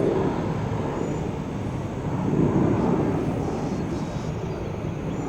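Jet airliner's engines rumbling steadily, swelling in loudness about two and a half seconds in.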